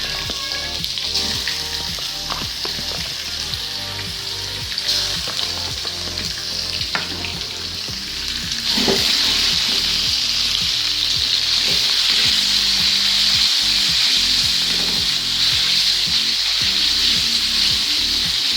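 Food frying in hot oil in a pan, sizzling steadily while being stirred, with a few clicks of the utensil. The sizzle gets louder about nine seconds in.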